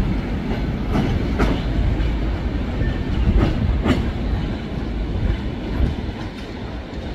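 Suburban electric train (elektrichka) running past, with a steady low rumble and its wheels clacking over the rail joints. The sound grows a little fainter toward the end.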